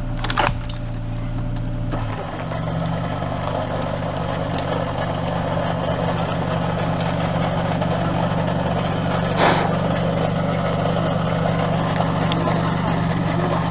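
Off-road 4x4's engine running steadily; about two seconds in its note steps up and holds higher, with a short hiss about halfway through.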